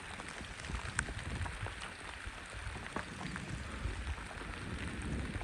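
Rain falling steadily, an even patter with scattered sharper drips.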